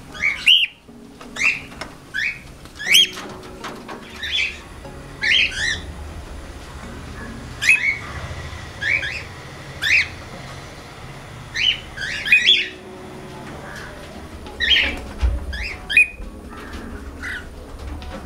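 Cockatiels calling: short, shrill, rising squawks repeated about every second or so, some in quick pairs.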